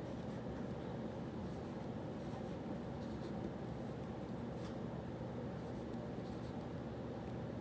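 Writing on paper, faint scratching with a few light ticks, over a steady low hum of study-café background noise.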